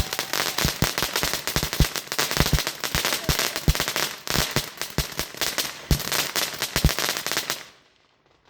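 Consumer firework going off in a rapid, irregular barrage of sharp bangs over continuous crackling, stopping suddenly near the end. It is the same firework firing again after a misfire.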